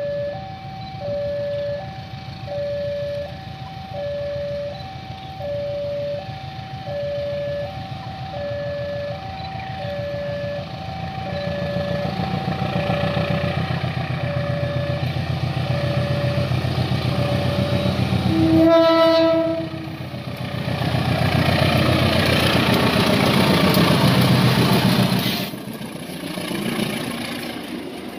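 Level-crossing warning signal chiming an alternating high-low two-note pattern while an approaching diesel-electric locomotive's engine rumble grows louder. Just past the middle the locomotive sounds its horn once for about a second, then the engine and train run loud past the crossing until a sudden drop near the end.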